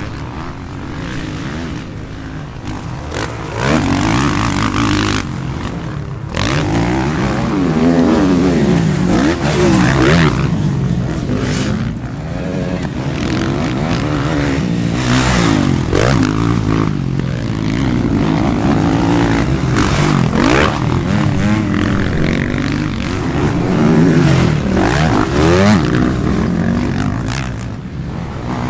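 Several motocross bikes racing, their engines revving hard, with the pitch climbing and dropping over and over as riders open and close the throttle and shift. The bikes overlap and swell louder as they pass close.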